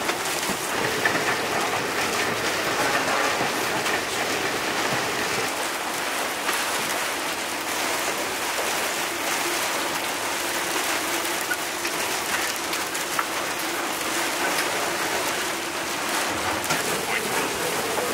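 Heavy rain and squall wind lashing a sailboat, heard from inside the cabin as a steady, dense hiss.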